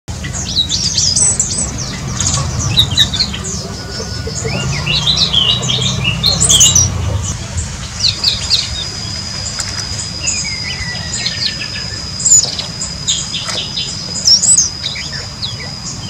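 Several small birds chirping and calling in quick, high notes. A steady, thin, high tone joins them about eight seconds in.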